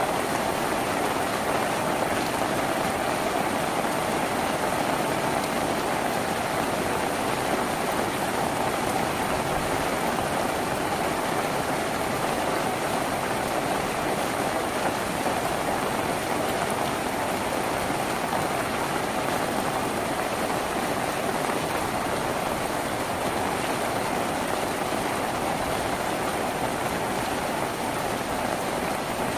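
Steady rain drumming on a tin roof, an even unbroken patter without pauses.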